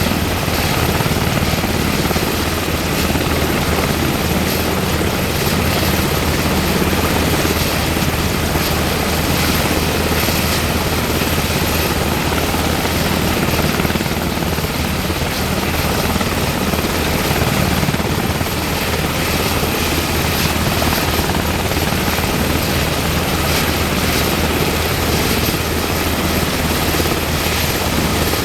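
UH-60M Black Hawk helicopter running steadily, with its main rotor and twin turboshaft engines making a loud, unchanging noise throughout.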